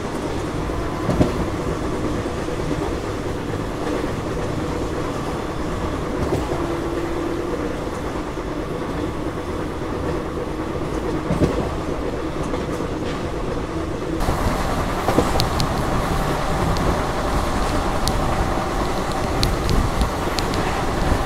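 Running noise of an Indian Railways sleeper coach at speed: a steady rumble with wheels clattering over the rails. About 14 seconds in it turns louder and sharper, with crisp clicks on top.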